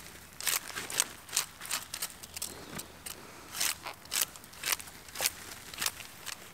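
A series of short, sharp crinkling rustles, roughly two a second, as camping gear is handled and pulled out of a backpack.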